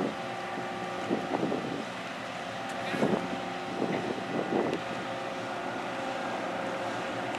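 Steady drone of the ferry Ferry Ryukyu's engines, with several fixed hum tones, as wind gusts on the microphone a few times.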